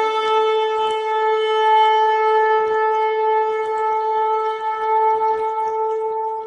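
Shofar blown in one long held blast at a steady pitch, tailing off near the end.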